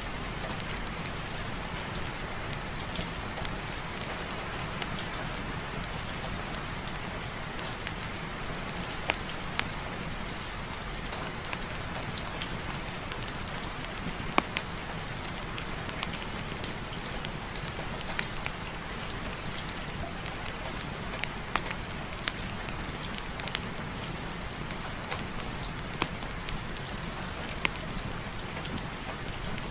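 Steady heavy rain, an even hiss with scattered sharp ticks and pops a few times a second.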